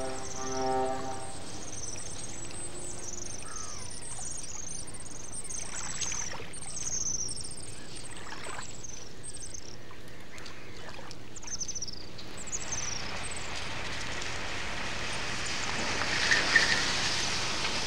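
Birds chirping over and over, each call a short high note falling in pitch, for most of the stretch. Near the end a car's hiss builds, rising in level, as an estate car drives up.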